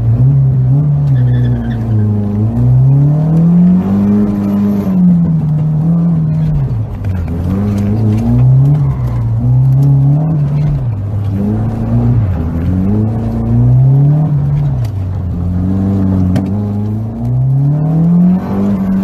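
Car engine revving up and falling back again and again, a rise and fall every two or three seconds, heard from inside the cabin.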